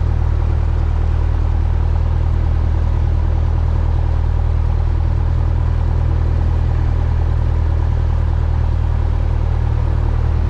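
Cessna 172's propeller engine running with a steady, unchanging low drone.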